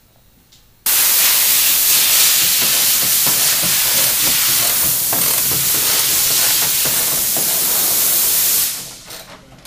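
A loud, steady hiss that starts suddenly about a second in and dies away near the end.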